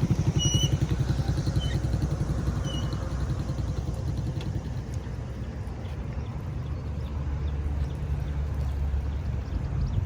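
An engine running steadily with a fast, even low pulse, with a few short high chirps in the first three seconds.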